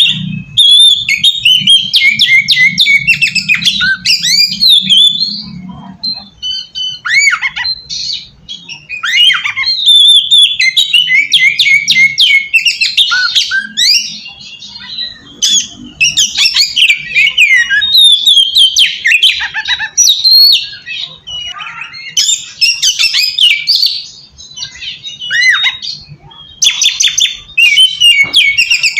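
Oriental magpie-robin (kacer) singing a loud, rapid, varied song of whistles, trills and harsher notes. It comes in long runs broken by a few short pauses. It is a lure song meant to provoke other magpie-robins into answering.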